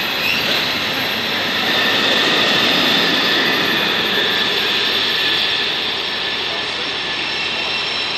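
A train at close range: loud, steady running noise with a high whine throughout.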